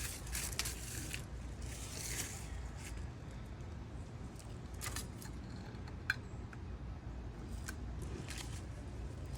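Scattered light clicks and scrapes of hand work on the tractor's wiring, with a sharper click about six seconds in, over a steady low hum.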